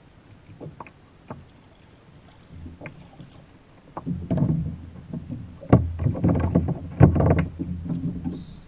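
Handling noise aboard a kayak: scattered sharp clicks and knocks on the hull and gear, then from about four seconds in, louder bouts of bumping and water sloshing.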